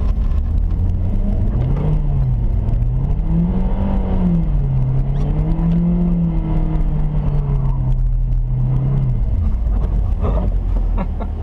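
Mitsubishi Lancer Ralliart's turbocharged 2.0-litre four-cylinder engine heard from inside the cabin as the car is driven hard on snow. The revs climb and fall twice, hold steady, then drop off about nine seconds in, over a constant low rumble.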